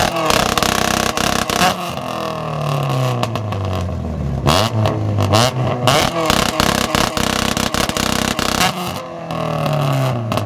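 Car engine revved repeatedly, the revs climbing and falling several times. A rapid string of sharp exhaust pops runs through the middle, as from a two-step launch limiter.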